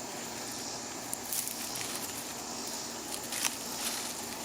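Soil and dry potato plants rustling and scraping as plants are pulled and potatoes are picked from a raised bed, with a few soft clicks over a steady faint hiss.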